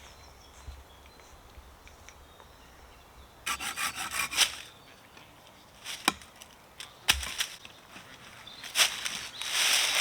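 Wood being worked with a hand tool: a quick run of rasping strokes a few seconds in, then single sharp cracks of wood, and another stretch of rasping near the end.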